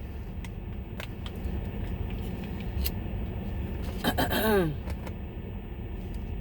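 Steady low rumble of a car heard from inside the cabin, with a few light clicks. About four seconds in, a person's short voiced sound falls in pitch, like a sigh or groan.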